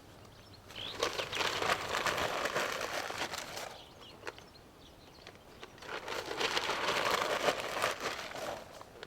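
Two spells of crinkly, crackling handling noise, each two to three seconds long, one starting about a second in and one near the end.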